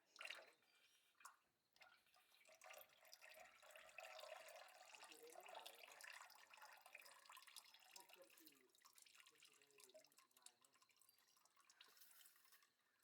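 Near silence with faint scattered small clicks and ticks.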